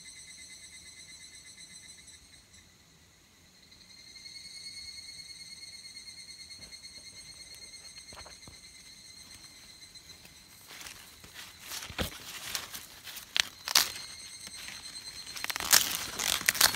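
Insects chirring in a steady, finely pulsing trill that fades briefly and comes back. From about eleven seconds in, loud irregular crackling and rustling handling sounds take over.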